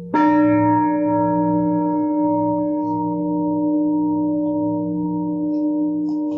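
Singing bowl struck just after the start, ringing with several overtones that fade slowly, the higher ones first. A lower bowl keeps humming underneath with a slow pulsing.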